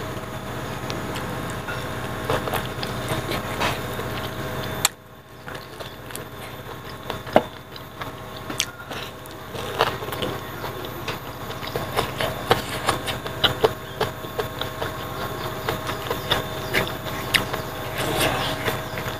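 Close-up eating sounds of a man eating rice and pig trotter with his hands: wet chewing and lip-smacking with many short clicks, over a steady background hum that drops suddenly about five seconds in.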